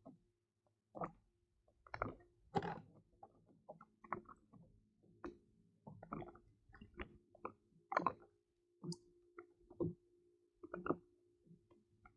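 Scattered light knocks and clicks on a fishing kayak, irregular and uneven in loudness, with the loudest about eight seconds in, over a faint steady hum.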